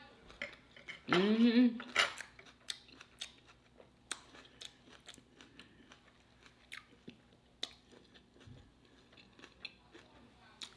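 Close-miked chewing of homemade keto fried catfish on bread, with wet mouth clicks and smacks scattered throughout and a brief pleased hum about a second in.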